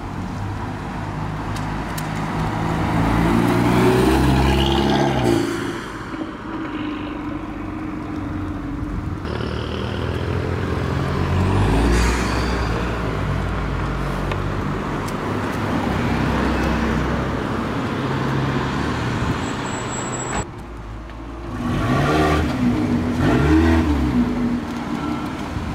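Car engines revving and accelerating past one after another, each rising in pitch and then falling away, loudest about four seconds in, around twelve seconds in, and again near the end. The sound changes abruptly a few times.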